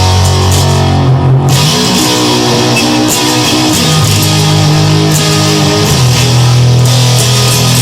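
Instrumental rock music led by guitar, with sustained chords and a steady beat.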